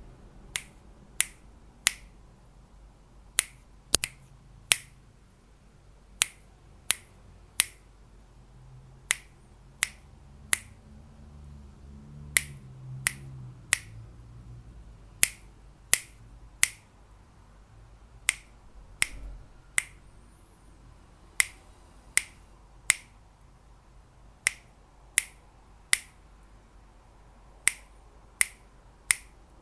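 Crisp finger snaps in sets of three, about 0.7 s apart, a new set every three seconds or so, keeping a steady beat that paces the learner's turn to repeat each sound.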